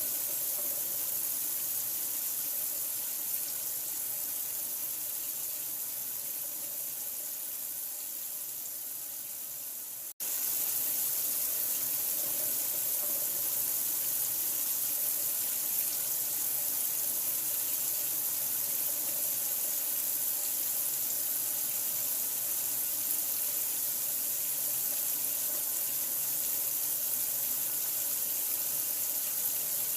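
Steady running water, an even rushing hiss strongest in the highs. About ten seconds in it cuts out for an instant and comes straight back.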